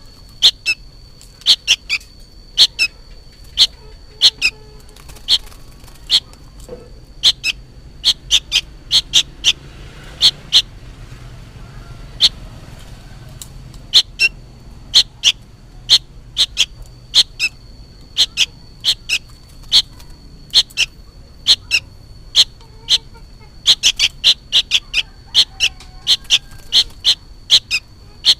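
Juvenile sooty-headed bulbul giving short, sharp, repeated calls in irregular runs, sometimes several a second, with a lull of a few seconds near the middle. The calls are noisy, as if the young bird were calling for its parent. A faint steady high whine runs underneath.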